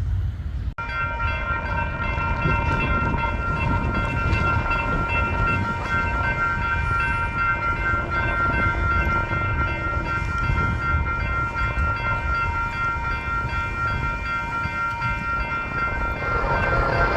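Freight train's locomotive horn sounding a long, steady chord from about a second in, over the low rumble of the diesel locomotives, as a westbound Union Pacific empty coal train approaches a grade crossing.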